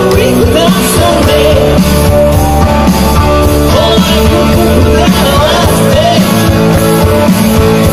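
Live rock band playing loud through a concert PA: electric guitars, bass and drums with a singer's voice over a steady beat, heard through a crowd-level microphone.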